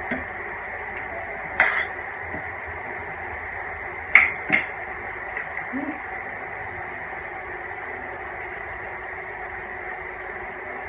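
Steady hum of background noise with a few short, sharp clicks of eating, one about a second and a half in and two close together around four seconds in.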